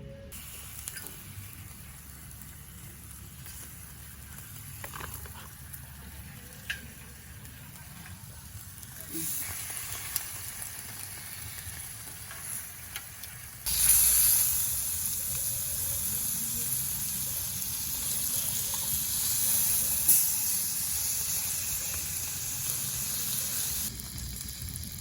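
Food frying in a pan: a quiet sizzle with a few faint clicks, growing louder about nine seconds in, then jumping suddenly to a loud, steady sizzle about halfway through that eases off shortly before the end.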